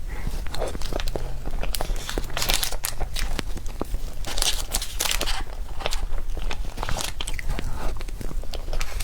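A person biting and chewing food, with many short wet mouth clicks and a few louder bites.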